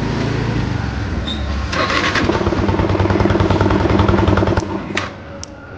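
Yamaha FZ V3's 149 cc single-cylinder engine running just after catching on the electric self-starter, revved for a couple of seconds from about two seconds in, then dropping back toward idle near the end. The starter is engaging again after the corroded kill-switch and starter-button contacts were cleaned.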